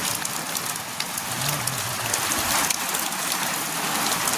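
Steady rain falling on a hard surface: an even hiss made up of many small drop ticks.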